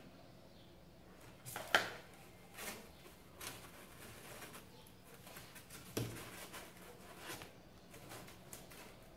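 Light handling sounds of cardboard pieces being positioned and pressed into place: a few scattered short knocks and rustles, the loudest about two seconds in.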